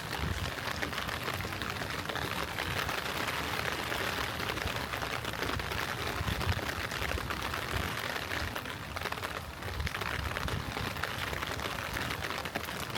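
Gentle rain falling, a steady patter of drops, with an uneven low rumble underneath.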